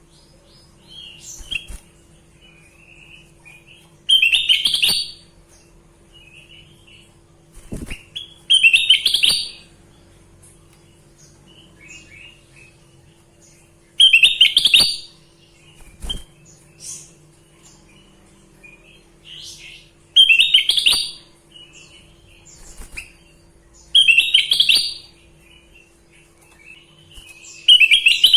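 Kutilang emas bulbul singing: loud, bright phrases of about a second each, repeated every four to six seconds, with softer chirps in between. A steady faint hum runs underneath.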